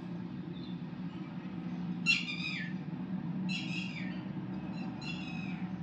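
A bird calls three times, each a short falling squawk, about a second and a half apart, over the steady low hum of an SGG industrial sewing machine running as it stitches.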